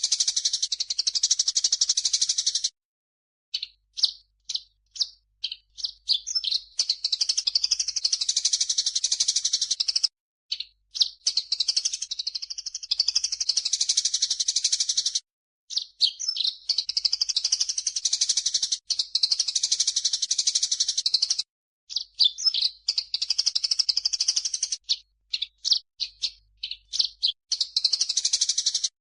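Songbird training recording mixing grey-cheeked bulbul (cucak jenggot) and Eurasian tree sparrow calls: dense, high chattering in runs of several seconds, broken by short separate chirps and a few abrupt pauses.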